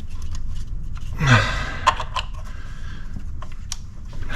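A person lets out a breathy exhale with a falling grunt about a second in, followed by a few sharp clicks and taps from hand work on the engine.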